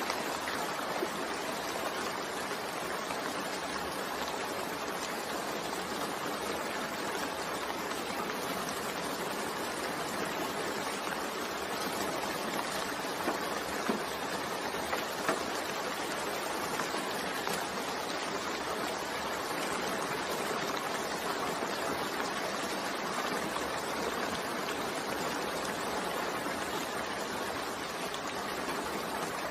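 Steady, even rain falling, a continuous hiss with a few faint drop ticks near the middle.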